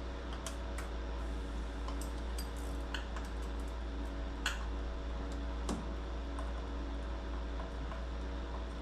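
Scattered light metallic clicks and taps of hand tools working on a car's AC line fitting in the engine bay, the sharpest about halfway through, over a steady low hum.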